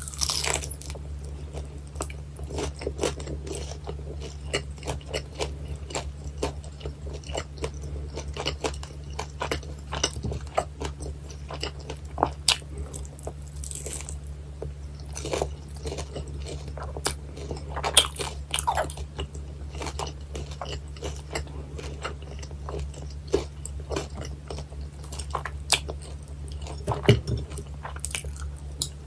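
Close-miked eating of guobaorou, crispy fried pork in sweet-and-sour sauce: repeated crunchy bites and chewing, with a steady low hum underneath.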